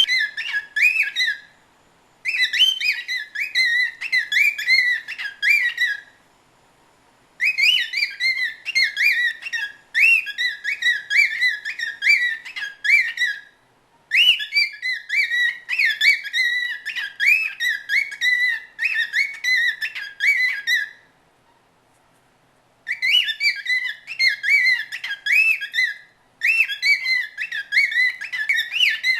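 Male cockatiel whistling his song: loud phrases of quick rising-and-falling notes, each phrase several seconds long, with short pauses between them.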